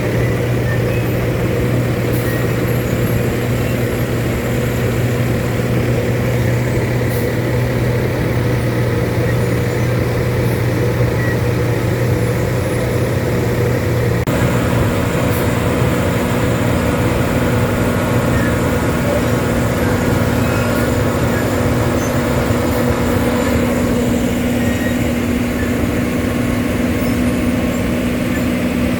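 Heavy road-construction machinery for asphalt milling and paving running with a steady engine drone; about halfway through, the pitch of the drone shifts.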